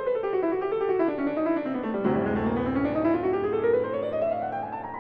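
Background piano music: a fast run of notes falls in pitch for about two seconds, then climbs steadily back up.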